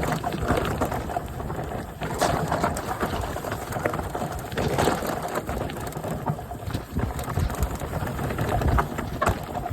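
Mountain bike riding over a rough path: tyres crunching on stones and the bike rattling, a dense irregular clatter over a low rumble.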